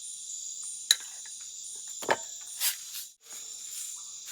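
Steady chorus of rainforest crickets and other insects, a continuous high shrill. A sharp click about a second in and a knock and a short rustle around two seconds in cut through it.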